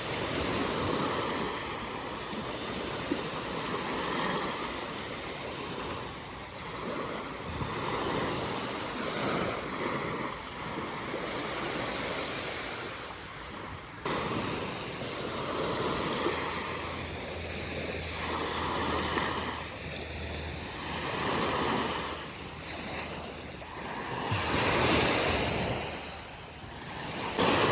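Ocean surf washing onto a beach, the waves swelling and fading every few seconds, with wind gusting on the microphone.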